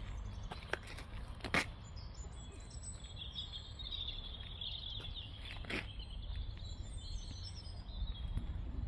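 Small songbirds singing and twittering, busiest in the middle, over a steady low outdoor rumble, with two sharp clicks, one about a second and a half in and one near six seconds.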